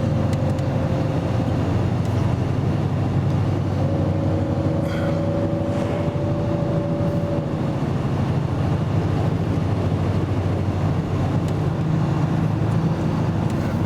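Engine and road noise inside a moving car, a steady low hum with a faint higher whine for a few seconds in the middle.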